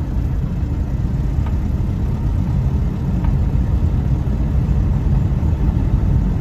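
1960s Austin Cambridge heard from inside the cabin while on the move: a steady low engine rumble mixed with road noise.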